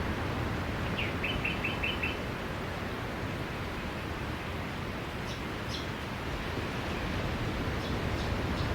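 Steady wash of sea surf on a beach, with small birds chirping over it: a quick run of about six chirps a second in, two higher chirps around five seconds, and a few more near the end.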